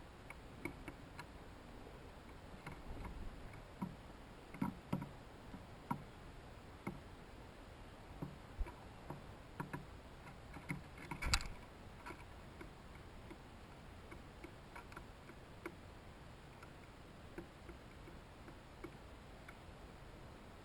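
Small animals feeding at a hanging seed feeder: irregular light clicks and taps of pecking and seed handling, busiest in the first half, with one louder knock about eleven seconds in.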